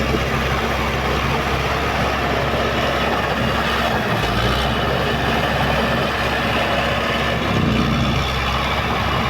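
Belarus MTZ-82 tractor's four-cylinder diesel engine running steadily at a constant speed.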